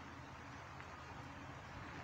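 Faint steady outdoor background: a low rumble under an even hiss, with no distinct event.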